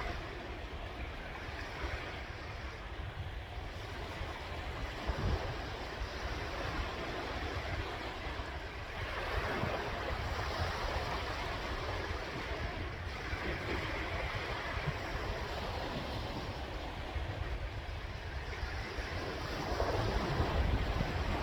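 Sea waves breaking and washing in, in several slow swells, with low wind rumble on the microphone.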